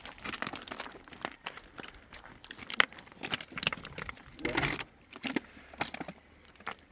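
Stones clacking and knocking against one another as they are handled and stacked: an irregular run of sharp clicks, the sharpest a little under three seconds in.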